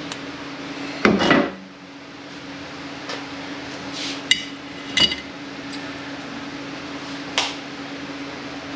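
Metal transmission parts and hand tools knocking and clinking on the bench, about five separate strikes; the loudest comes about a second in, and one near the middle rings briefly like metal. A steady low hum runs underneath.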